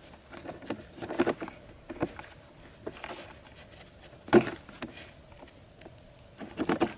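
Irregular taps, knocks and rustling of things being handled, with one sharper knock a little past halfway.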